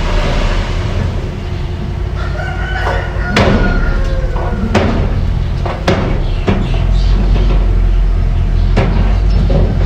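Mini bulldozer engine running with a steady low rumble, with about five sharp knocks spread through it. A drawn-out high squeal comes a couple of seconds in.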